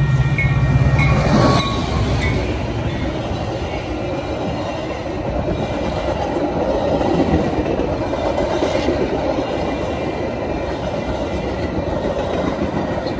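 Metra commuter train passing close by. The F40PH diesel locomotive's engine drone goes past about a second and a half in. The bi-level gallery cars then roll by with a steady rumble and clattering wheels, fading as the train clears near the end.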